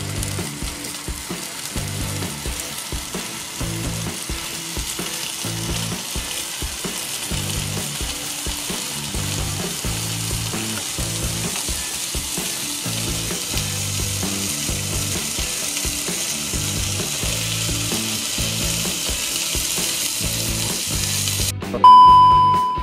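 Pancetta strips sizzling as they fry in a nonstick pan over a gas flame, the sizzle growing steadily louder. Near the end it cuts off abruptly for a loud, steady test-tone beep.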